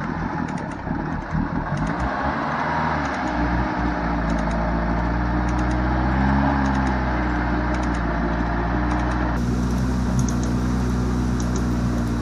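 1999 Subaru Forester's flat-four engine running steadily while the car sits stuck in a mud hole, rising briefly about six seconds in.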